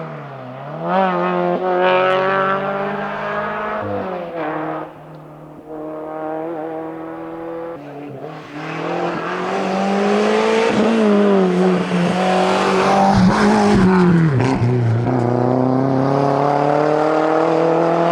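Rally car engines at full throttle, pitch climbing and dropping sharply through gear changes and lifts as the cars attack the stage.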